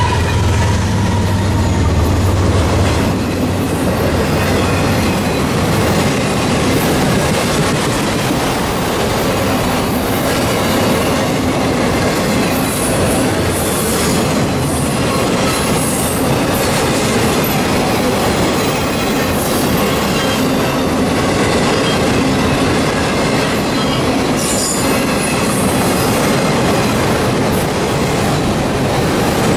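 Autorack freight train rolling past at close range: a steady rumble and clatter of steel wheels on the rails. The trailing diesel locomotive's low engine drone fades over the first few seconds, and the wheels give short high squeals a few times.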